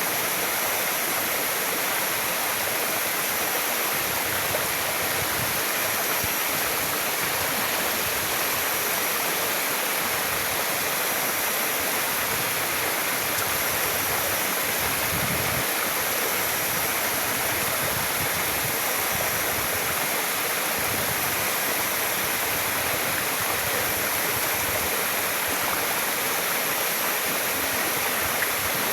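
A waterfall's water rushing and splashing in a steady, unbroken roar of noise.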